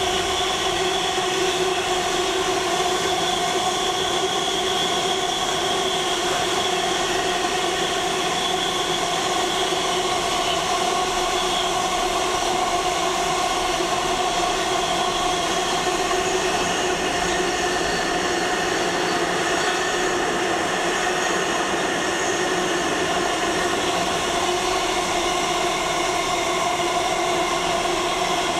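Long train of yellow engineering wagons rolling steadily past on the main line. The wheels on the rails make a continuous rolling sound with a steady whine on top.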